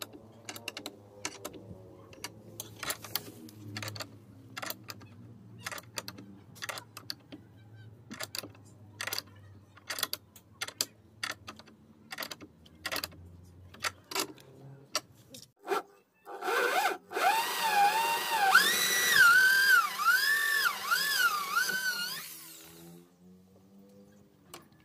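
A run of light knocks and clicks of hand work on wood, then a power tool runs for about six seconds near the end, its pitch swinging up and down as it works.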